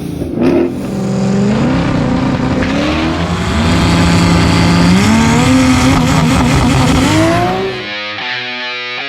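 Performance car engine revving hard under acceleration, its pitch climbing and dropping several times. Rock music with electric guitar takes over about eight seconds in.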